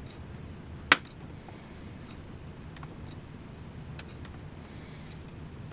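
Sharp clicks from a hand tool working a stubborn nail out of an old wicker picnic basket: one loud click about a second in and a softer one about four seconds in, with a few faint ticks between, over a steady low shop hum.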